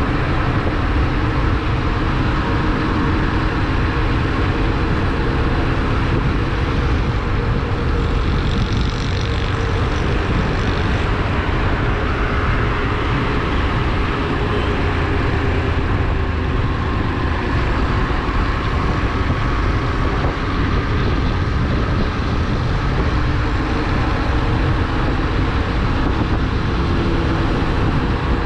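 Motorcycle running at steady road speed, its engine drone mixed with heavy wind rumble on the microphone.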